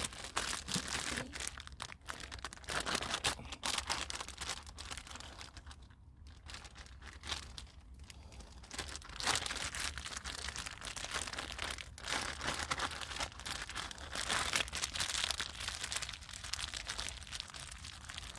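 Irregular crinkling and rustling as hands massage marinade into raw chicken legs and thighs.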